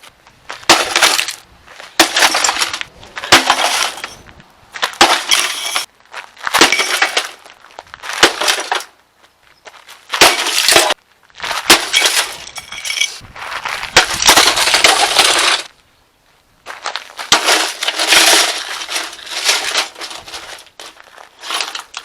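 Old water heater being smashed: a long run of crashing blows, one every second or two, each with a brief clatter and ringing of metal and debris. There is a short pause about two-thirds of the way through.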